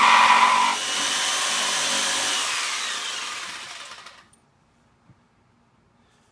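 Power saw cutting a wooden shelf runs at speed, then drops off a little under a second in and winds down with a falling whine, dying away about four seconds in.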